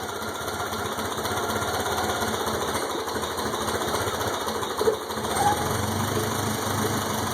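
Ford 8N tractor's four-cylinder flathead engine running steadily, throttled down toward idle on its first run after being revived.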